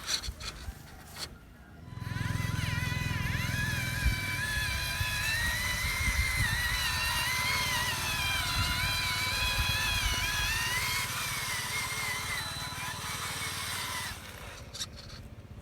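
A remote-control truck's electric drive motor and gearbox whining, the pitch rising and falling as the throttle changes, over a low rumble. It starts about two seconds in and fades near the end.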